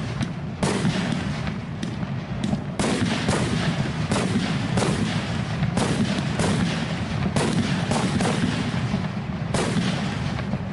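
Fireworks finale: many loud bangs of bursting aerial shells in quick succession, one every half second or so, over a continuous crackle and rumble with no let-up.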